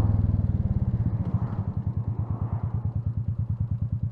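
Royal Enfield Meteor 350's single-cylinder engine running at low revs with an even pulsing beat, easing off toward idle as the bike slows.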